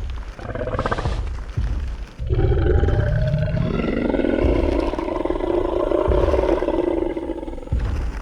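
Designed Tyrannosaurus rex roar sound effect: a low growl that swells about two seconds in into one long roar lasting some six seconds. Deep low thuds of stomping footsteps sound under it.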